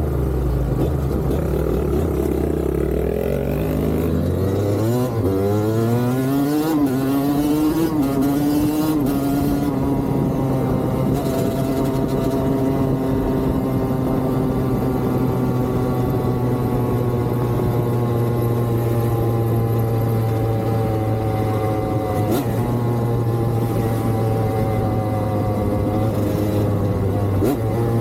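Motorcycle engine pulling up through its revs over several seconds, then running at a steady, slowly easing pitch while riding.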